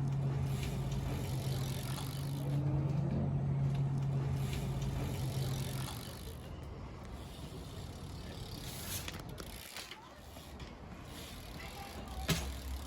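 A BMX bike being ridden, with a few sharp knocks, the loudest near the end. A steady low hum runs through the first half and stops about six seconds in.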